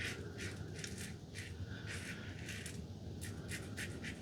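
Safety razor (Razor Company Vanguard with a Rapira Platinum Lux blade) scraping through lathered stubble in short, quick strokes, about three a second, with a brief pause about three seconds in.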